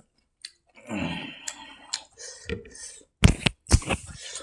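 Close-miked chewing and wet mouth clicks from a person eating with their fingers. After a quiet first second the chewing comes in softly, and a cluster of sharp mouth clicks follows a little after three seconds in.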